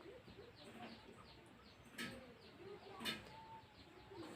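Faint background bird chirping, with two light clicks about two and three seconds in.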